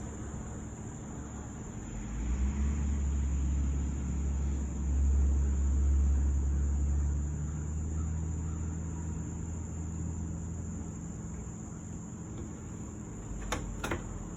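A motor vehicle passing: a low engine rumble swells about two seconds in, is loudest around the middle and fades away. Under it runs the steady high chirring of crickets, and two short clicks come near the end.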